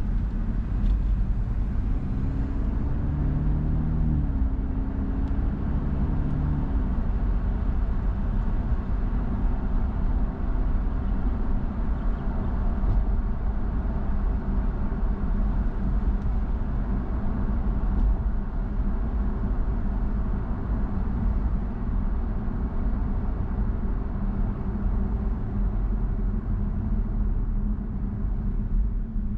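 Steady road noise of a car driving: low tyre and engine rumble with a hum that shifts in pitch a few times in the first several seconds.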